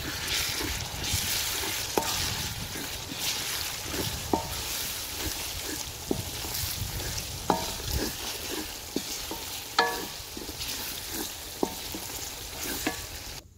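Onion-tomato masala with spices sizzling in oil in an aluminium pot as it is fried and stirred with a wooden spatula. The spatula knocks against the pot every second or two, each knock a short ringing clink.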